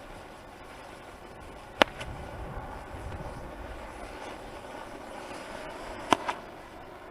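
Two sharp firework bangs about four seconds apart, the second followed at once by a smaller crack, over a steady background hiss.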